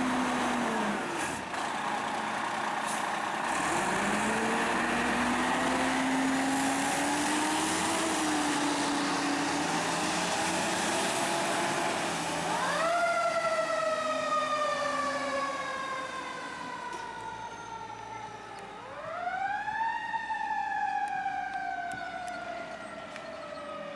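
Fire apparatus responding: heavy vehicle running noise with changing pitch for the first half. Then, about halfway in and again a few seconds later, a siren winds up quickly and slowly winds down.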